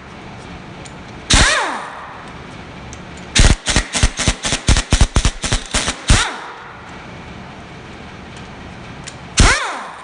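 Impact wrench hammering on the tight water pump bolts of a 5.3 LS engine. It goes in short bursts: one about a second in, a rapid stuttering run of blows from about three to six seconds, and another burst near the end, each short burst followed by a falling whine.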